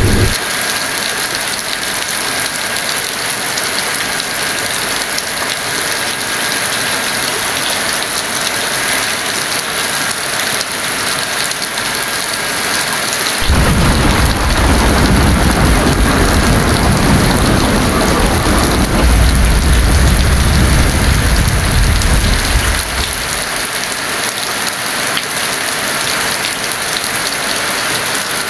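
Heavy rain falling steadily, with a deep roll of thunder that breaks in suddenly about halfway through, rumbles for around nine seconds and fades out.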